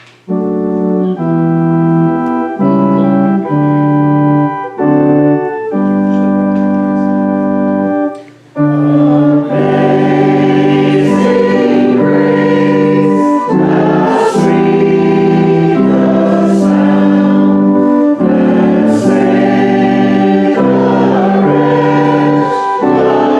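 Organ playing sustained chords of a hymn introduction for about eight seconds. After a brief break, a congregation begins singing the hymn with the organ accompanying.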